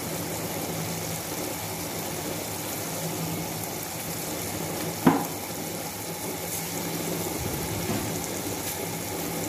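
Minced beef keema frying in a pan in oil and its own released juices: a steady sizzle and bubble, with one brief loud knock about five seconds in.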